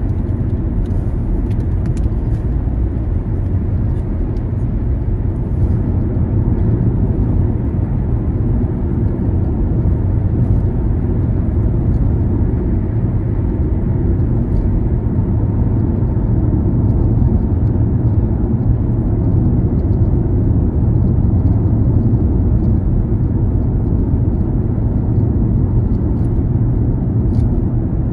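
Steady low rumble of a car driving on city streets: engine and tyre noise.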